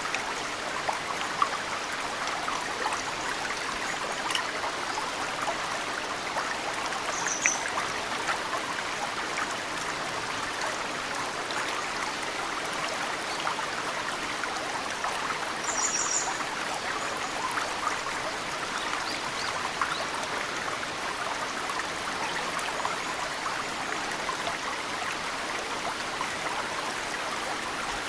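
Mountain stream flowing steadily, with snowmelt dripping into it as many small drip splashes. A bird gives two brief high chirps, about a quarter of the way in and just past halfway.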